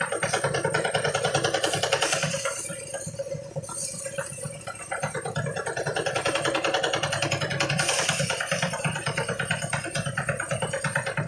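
Engine-driven harvest thresher running with a rapid pulsing clatter. It eases for a couple of seconds about a third of the way in, then picks back up.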